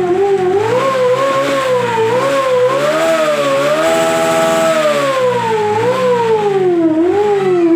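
Big motorcycle engine revving, its pitch rising and falling in slow swells and held high for about a second near the middle.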